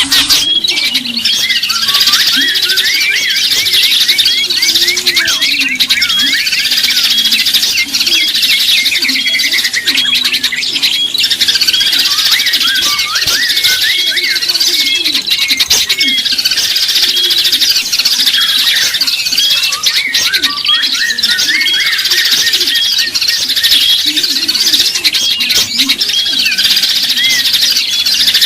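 Dense chorus of many small songbirds chirping and twittering at once, with quick repeated high notes and short rising and falling calls. It is a mixed-species bird-lure (pikat) recording. Lower wavering calls run underneath.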